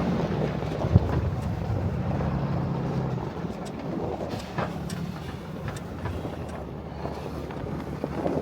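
A truck engine running, with a steady low hum that fades about three seconds in, leaving a rumbling noise and a few scattered clicks.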